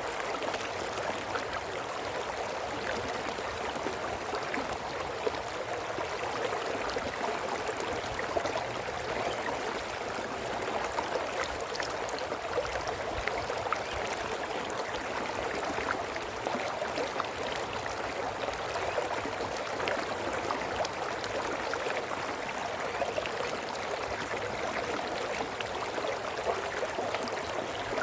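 A brook flowing steadily over stones, a continuous babbling and splashing with many small droplet ticks.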